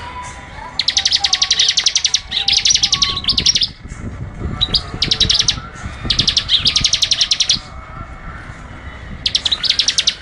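Small songbird singing in high, rapid trills: a series of short bursts of quickly repeated notes, one after another, with a brief pause about two-thirds of the way through.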